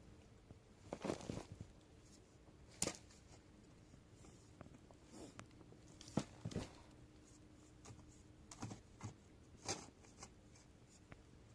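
Half a dozen short, scattered scrapes and knocks with faint quiet between them, like handling or working with material.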